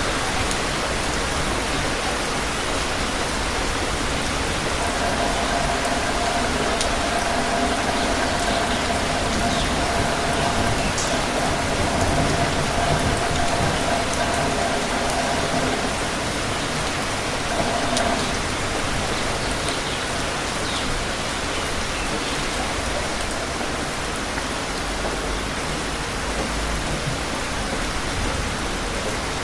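Steady, even rain falling on surfaces, with a few faint drip ticks. A faint steady tone of unclear source rises out of the rain about five seconds in and stops well before the end.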